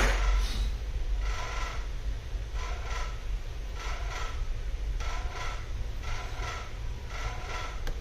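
Repeated scraping or rubbing strokes, about one a second, each with a squeaky, slightly tonal edge, over a steady low hum. A sharp click comes right at the start.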